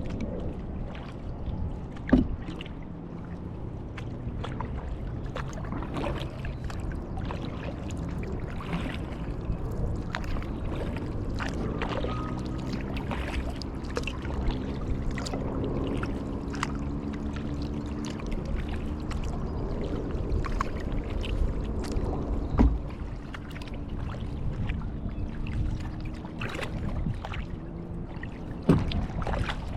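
Kayak paddling: the paddle blades dip and splash with water dripping, and there are frequent small clicks. Three sharp knocks stand out, about two seconds in, about two-thirds of the way through and near the end. A low hum of several steady tones drones through the middle.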